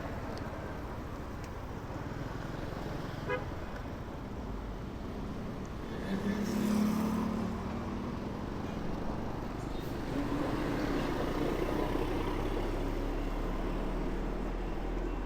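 Busy city street traffic heard from a moving rider, a steady hum of engines and road noise. A vehicle horn honks with a held note about six seconds in, the loudest sound here, and another held honk comes a few seconds later.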